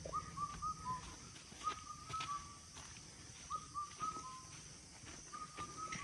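A bird repeating a short whistled phrase of about four notes, the last one lower, roughly every two seconds, four times over.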